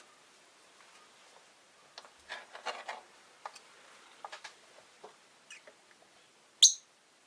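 Rosy-faced lovebirds moving about their cage: scattered light clicks and taps, busiest about two to three seconds in, then one short, sharp chirp near the end.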